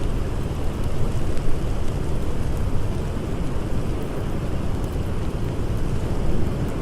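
Blizzard wind blowing as a steady, low rumbling rush, with a few faint campfire crackles.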